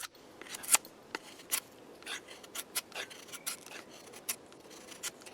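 Cold Steel Recon 1 Tanto folding knife shaving wood in a run of short, sharp cuts, about two a second, as its edge is checked for sharpness.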